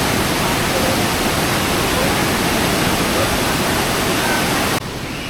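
Steady loud rushing noise with no clear pitch, dropping suddenly to a quieter rush near the end.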